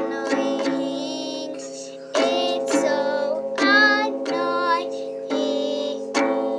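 Ukulele strummed in chords, each strum ringing on and fading, about six strums, with a child's voice singing along at times.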